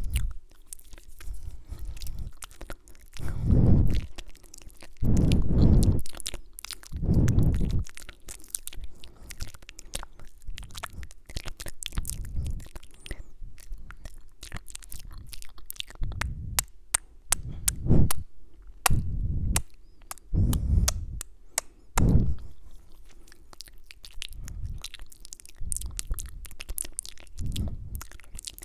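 Close-miked ASMR mouth sounds: many wet clicks and kiss-like smacks, with low muffled thumps every second or two, heaviest a few seconds in.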